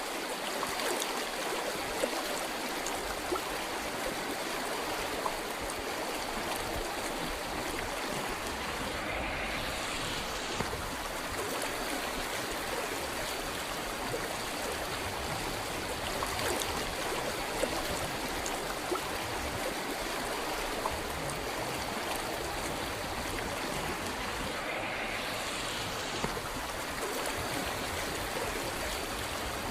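River water flowing: a steady, even rush of water with a few brief louder spots now and then.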